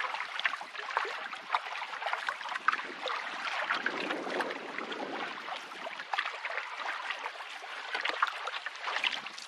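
Canoe paddle strokes through the water: splashing and dripping as the blade dips and pulls, with trickling and gurgling along the hull, a little fuller about four seconds in.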